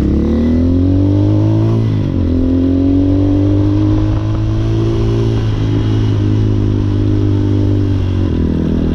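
Hawk 250 dirt bike's single-cylinder four-stroke engine pulling through the gears: its note rises, dips briefly at an upshift about two seconds in, and rises again before levelling off. Near the end it drops to a lower, steadier note as the throttle eases.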